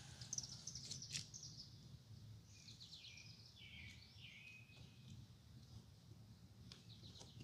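Faint songbird chirping: several short phrases, some falling in pitch, over a low steady background hum, with a faint click about a second in and another near the end.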